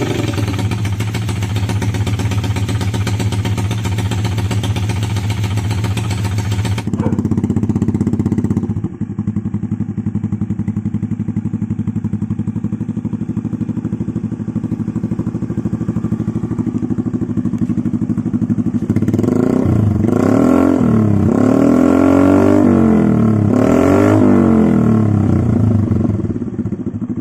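Motorcycle engine running through a Daeng 4 Thai-style aftermarket racing exhaust. It idles steadily for most of the time, then is revved up and down several times near the end.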